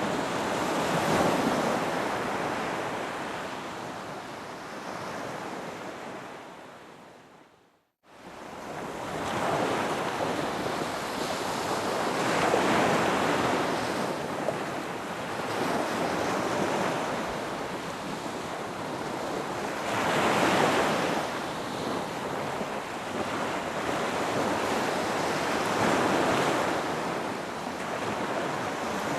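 Ocean waves washing onto a beach in slow surges, each swell rising and falling over several seconds. About eight seconds in the sound fades away to a moment of silence, then comes straight back.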